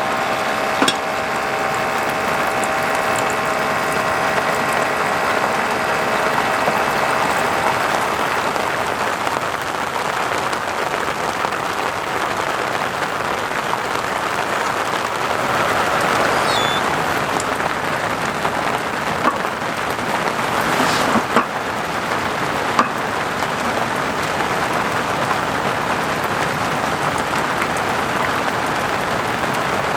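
Steady heavy rain, an even hiss of dense drops, with a few sharp taps of drips now and then.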